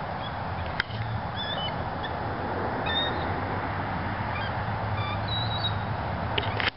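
Scattered short, high bird calls over a steady rushing noise, with a sharp click about a second in.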